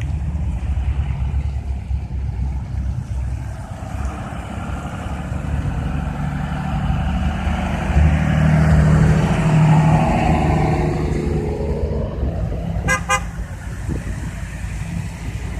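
Trucks in a convoy driving past with a steady low engine rumble, which is loudest as one passes close partway through. About two-thirds of the way in, a horn gives two quick toots.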